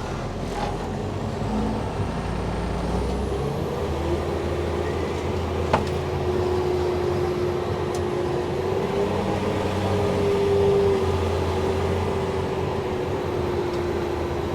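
Cummins diesel engine of a self-propelled crop sprayer running steadily under load, heard from inside the cab. A steady whine joins the drone about four seconds in, and there is a single click near six seconds.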